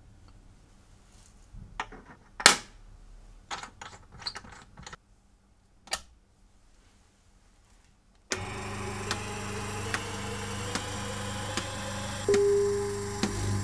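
Rocker switches on a control box being clicked. A few scattered clicks and knocks come first. About eight seconds in, a steady electric hum comes on suddenly, followed by a row of switch clicks about every half second and a short held tone near the end.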